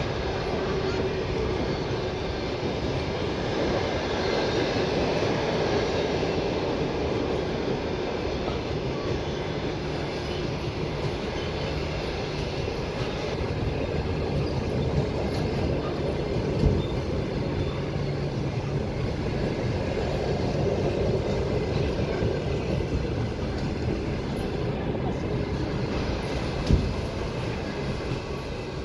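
Passenger train rolling along the rails, a continuous rumble of wheels on track with a faint wheel squeal. Two sharp knocks come through, one a little past the middle and one near the end.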